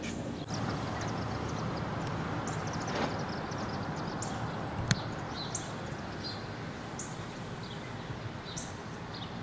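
Outdoor ambience: steady low background noise with a bird giving short, high, falling chirps about once a second, and a single sharp click near the middle.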